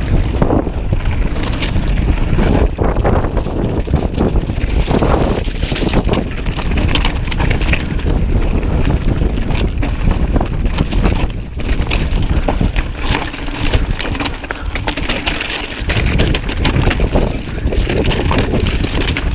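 Strong wind buffeting the microphone, a constant heavy rumble, while a mountain bike rolls down a rocky trail, its tyres crunching over loose stones with frequent clattering knocks.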